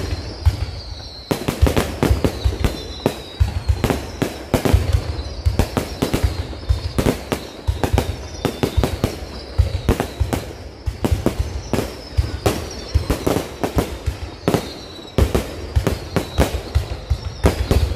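A low-altitude fireworks display going off in quick succession: rapid sharp bangs and crackles with deep booms, and short whistles that fall in pitch again and again.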